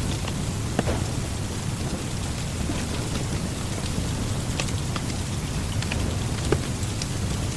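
Steady rain with a low rumble beneath it, and the scattered sharp pops of a crackling wood fire.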